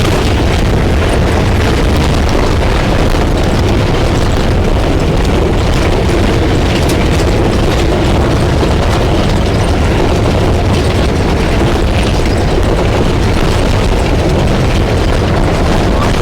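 Safari vehicle driving on a dirt track: a loud, steady low rumble of engine, tyres and wind on the microphone, with a few small knocks and rattles.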